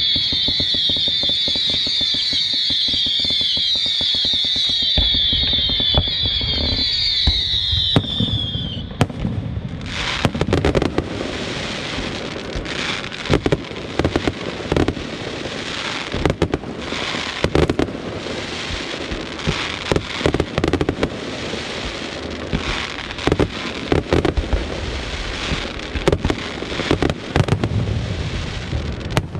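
Aerial fireworks going off in a dense, irregular barrage of bangs and crackles, beginning about nine to ten seconds in. Before that, a high, repeating musical pattern plays.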